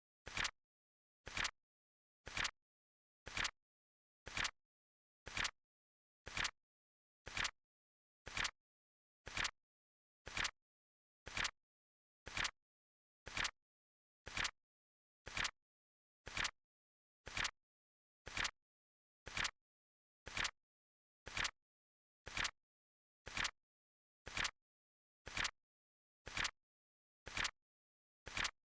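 Flip clock card flip sound effect, a short click repeating steadily about once a second as the countdown ticks each second.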